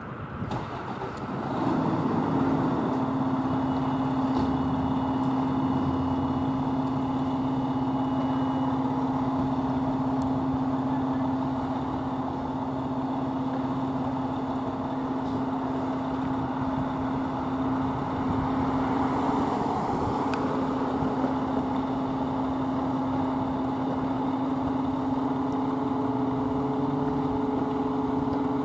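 Fire engine's engine running with a steady drone, which builds up over the first two seconds and holds level, with a second higher tone joining near the end.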